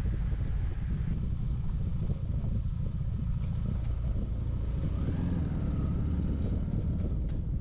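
Motorcycle cruising steadily along an open road, engine running under a heavy, steady rumble of wind on the microphone.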